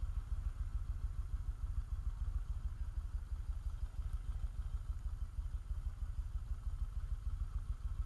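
Motorcycle engine running steadily during a ride, a heavy low rumble that pulses quickly with a faint steady whine above it.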